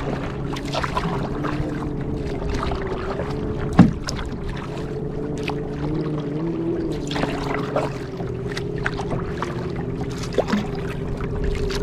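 Water splashing and dripping around a kayak on a lake, over a steady low hum, with a sharp knock about four seconds in.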